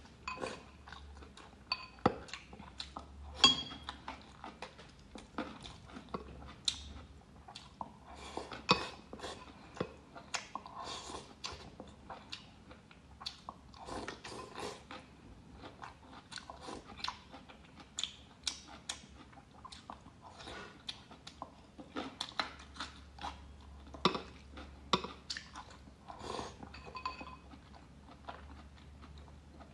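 Close-miked chewing and biting: a person eating mouthfuls of rice with pickled bamboo shoots and peppers, with irregular crunches and wet mouth clicks.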